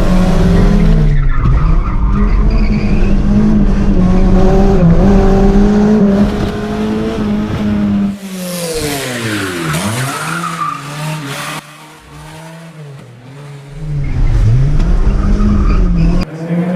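Car engine held at high revs with tyre squeal. About halfway through the revs drop away and climb again, then the engine goes quieter for a few seconds before coming back loud near the end.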